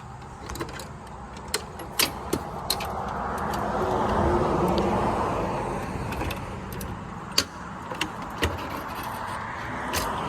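A motor vehicle passing by: its noise rises to a peak about four seconds in and then fades, with a smaller swell near the end. Scattered sharp clicks and small knocks sound over it.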